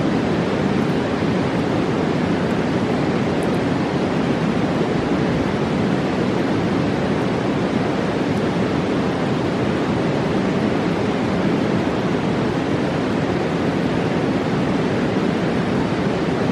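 Mountain river rushing past in a steady, even roar of white water.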